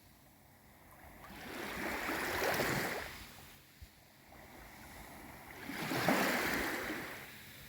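Gentle sea waves on a calm sea washing in twice, each wash swelling and fading over about two seconds, with quieter water between them.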